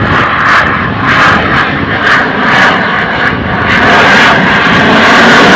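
Dassault Rafale's twin M88 turbofans applying full power as it pulls away from a slow pass: a loud jet roar that pulses in the first half, then grows louder and holds steady from about two-thirds of the way in.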